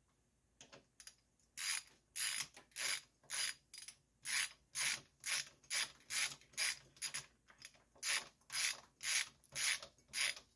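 Ratchet socket wrench clicking in short rasping strokes, about two a second, as it runs a 10 mm drain plug down into an outboard motor's oil sump.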